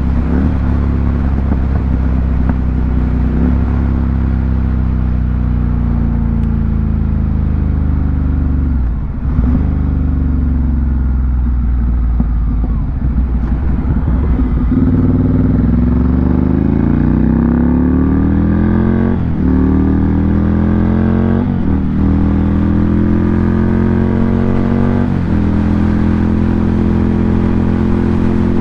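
Ducati Monster 797's air-cooled L-twin running through an aftermarket SC-Project exhaust under way. The engine note drops around the middle, then revs up through the gears, with a short break at each of three upshifts, and settles into a steady cruise near the end.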